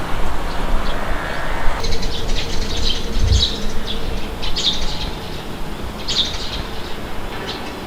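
Small birds chirping, a short high chirp every second or so, over a steady rushing noise, with one low thump about three seconds in.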